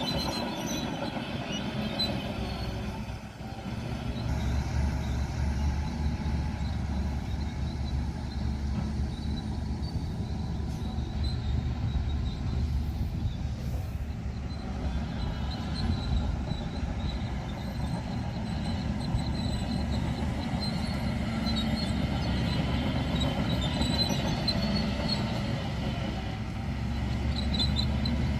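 Diesel engine of heavy earthmoving machinery running steadily under load, with a brief dip in level about three seconds in.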